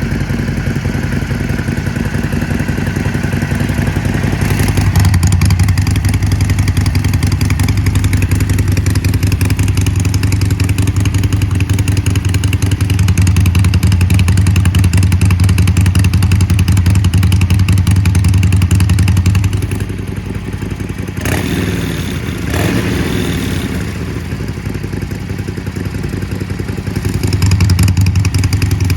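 Harley-Davidson Sportster V-twin running through its exhaust with a loud, low, pulsing note. It steps up to a higher, louder pitch about five seconds in, eases back after about twenty seconds, and comes up again near the end.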